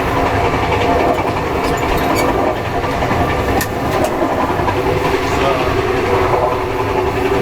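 Steady rumble of a moving passenger train heard from inside a carriage, with a few sharp clicks or knocks about two to four seconds in.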